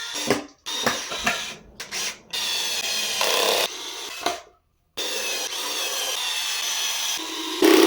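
Woodworking tool sounds on wood while a bird feeder is built: a few seconds of short rubbing strokes, then a power tool running steadily in two longer stretches. The clips start and stop abruptly.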